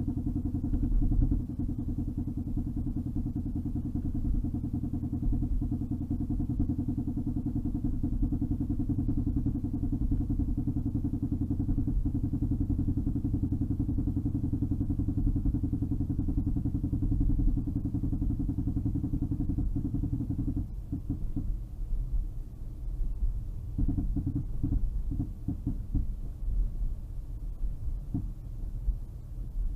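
Rapid low drumming from the rear of a 2008 Toyota Highlander Sport (3.5 L V6, AWD), heard inside the cabin over road noise, like someone playing the bongos. It runs steadily for about twenty seconds, then breaks up into uneven bursts and gaps.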